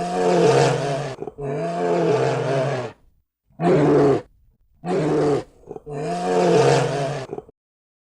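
An animal calling five times in a row, each call a drawn-out pitched cry of about a second, with short pauses between, stopping shortly before the end.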